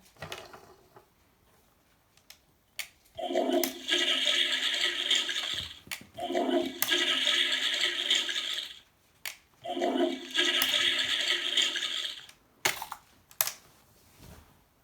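Toy toilet game flushed three times, each a flush sound effect of about two and a half seconds with short clicks between.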